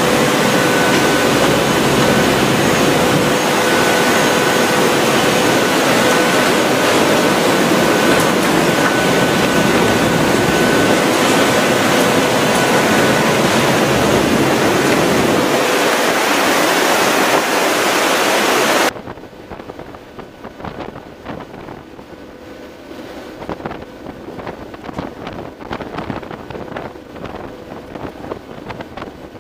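Loud, steady drone of the MC-130P's four turboprop engines and rushing air, with steady tones through it. About two-thirds of the way through it cuts off abruptly to much quieter wind buffeting the microphone.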